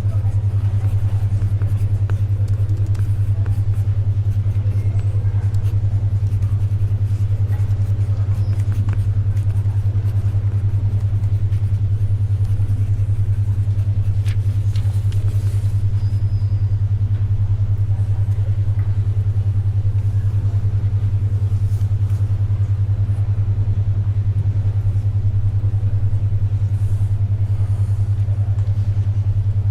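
Steady low hum of a 10.2 Hz alpha brainwave-entrainment tone, pulsing about ten times a second. Under it sits faint library ambience with a few soft clicks of pages and pencil.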